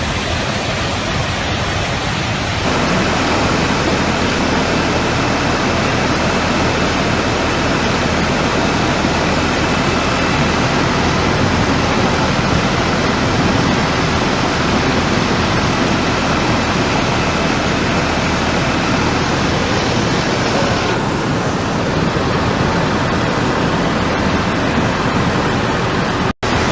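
Tsunami floodwater rushing, a loud steady wash of noise. The sound changes abruptly about 3 seconds in and again around 21 seconds, with a brief dropout just before the end.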